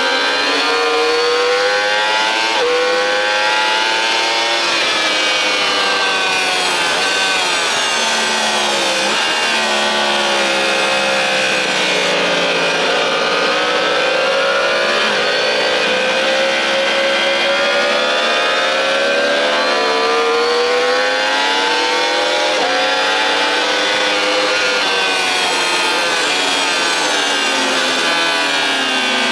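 Sport motorcycle engine at high revs, heard onboard at racing speed: its note climbs through the gears, drops back at each shift and when the throttle closes for corners, then rises again.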